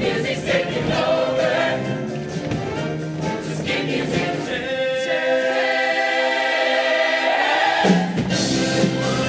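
Show choir singing with band accompaniment. For about three seconds in the middle the bass drops out and the voices hold a long, sustained chord, then the full band comes back in.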